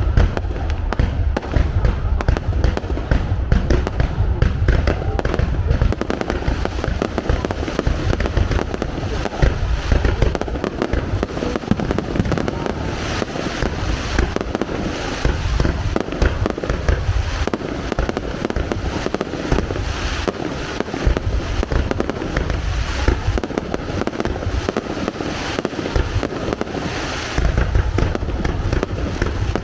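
Fireworks display: a dense, unbroken barrage of shell bursts, heavy low booms mixed with crackling.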